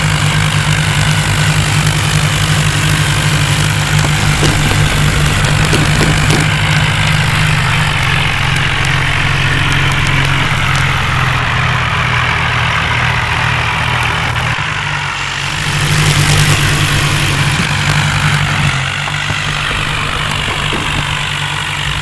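John Deere tractor's diesel engine running with a steady low pulse, dipping briefly about two-thirds of the way through, picking up again, then settling a little lower near the end.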